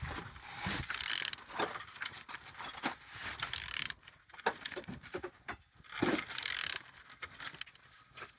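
Used car engine being turned over by hand with a wrench on the crank: irregular ratchet clicks, metal clinks and scrapes, with no engine running. It turns freely, with compression on the front cylinders.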